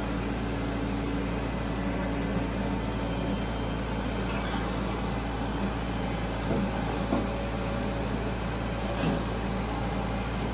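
Tractor engine running steadily, with a few light knocks from the equipment now and then.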